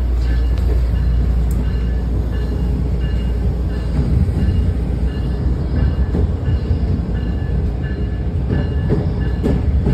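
MARC commuter train rolling along, heard from inside the car by the vestibule doors: a steady, heavy low rumble with faint, intermittent high-pitched tones over it.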